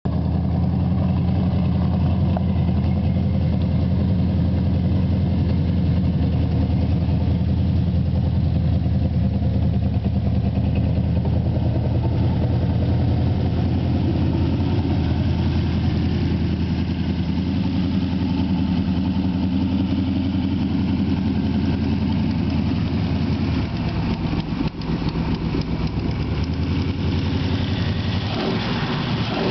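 Chevrolet big-block V8, a 454 bored and stroked to 496, running at low speed through its exhaust with a steady, lumpy low rumble while the car is parked. The level dips briefly about three quarters of the way in, and near the end the engine starts to rev up, rising in pitch.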